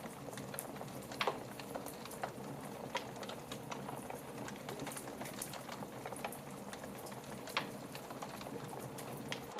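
Fireplace fire crackling over a steady hiss, with irregular small pops and two louder pops, about a second in and near the end.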